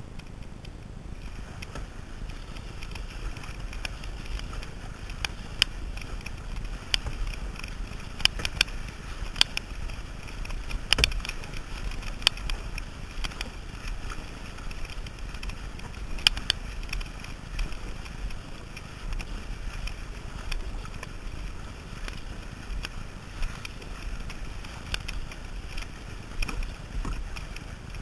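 Kayak paddling on sea water: irregular splashes and sharp drips over a steady low rumble.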